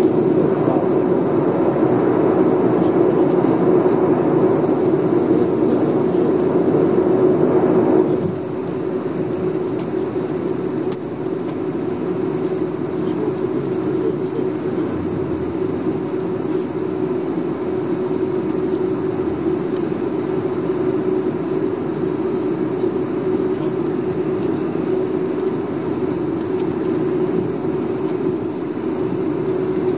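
Steady cabin noise aboard a Boeing 747-400 on the ground: a continuous hum with airflow hiss over it. About eight seconds in, the higher hiss cuts off suddenly and the noise settles lower.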